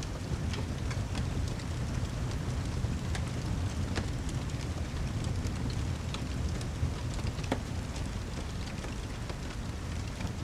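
Steady heavy rain over a low rumble, with scattered sharp ticks and crackles.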